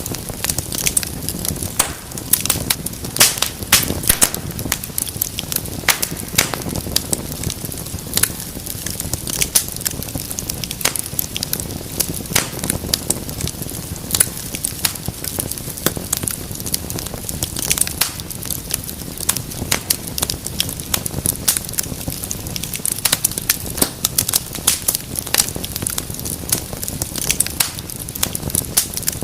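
Wood fire crackling and popping steadily, with many sharp snaps over a low rumble of burning.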